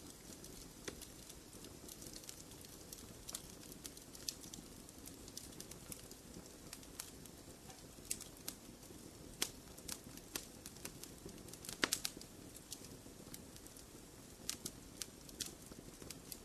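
Wood fire crackling in a fireplace: irregular sharp pops and snaps over a low, steady rumble of burning, with a cluster of louder pops about twelve seconds in.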